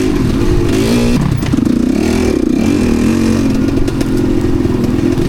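Enduro motorcycle engine revving up and down as the bike is ridden, its pitch rising and falling with the throttle.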